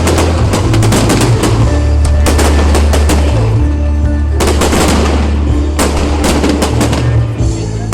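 Fireworks going off in dense volleys of sharp cracks and bangs, with quick runs of crackling, over loud music with a heavy steady bass.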